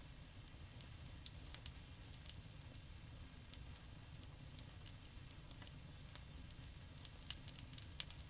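Campfire crackling: scattered sharp pops and snaps over a low, steady rumble, with a quick run of louder pops near the end.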